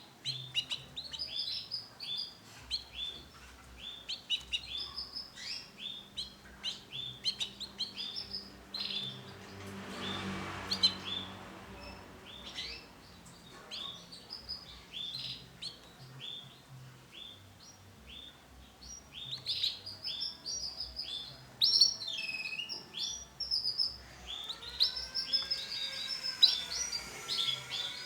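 Male canary singing in repeated short chirping notes and phrases. The song thins out in the middle and picks up again, busier, near the end.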